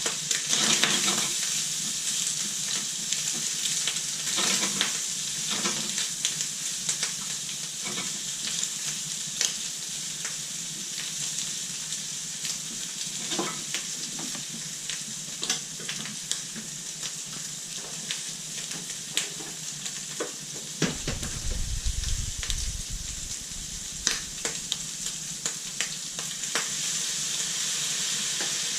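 Food frying and sizzling in a pan, a steady hiss broken by frequent clicks and scrapes of a utensil moving it around. A low rumble joins in for a few seconds about two-thirds of the way through.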